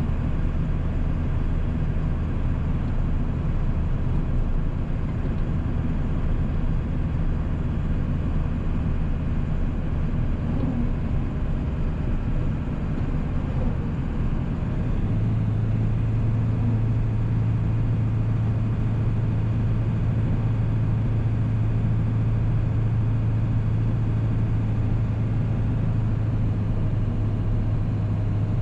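1997 7.3 Powerstroke V8 turbodiesel running steadily under way, with road noise. About halfway through, the engine drone steps up in pitch and holds at the higher note.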